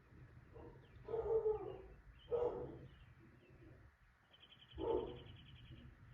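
Three short, low animal calls, the first the longest, in an outdoor night soundscape; near the end a rapid high trill and a few faint high chirps join in, over a steady low hum.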